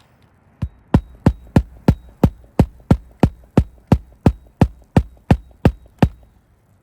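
Hammer driving roofing nails through a shingle into the roof deck: a steady run of sharp strikes, about three a second, starting about half a second in.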